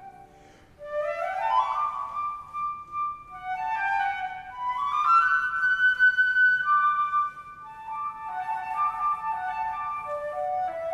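Flute playing after a short pause about a second in: quick rising runs that climb to held high notes.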